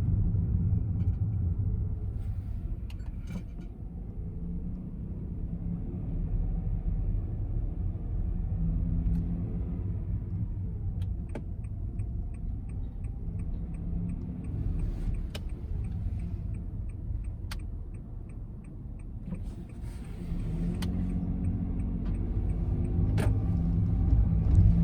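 Honda N-BOX's 660 cc three-cylinder engine and road rumble heard from inside the cabin, rising and falling as the car drives. A run of regular ticks comes about halfway through, and a few sharp clicks come later.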